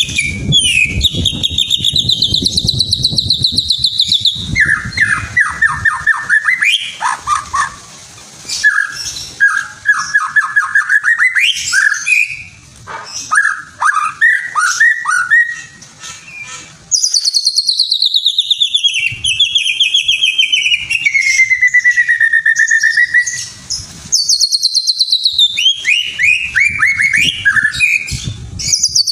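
Songbird singing a loud, varied song of fast trills and rapid repeated notes, mixing high falling sweeps with lower chattering runs, broken by a few short pauses.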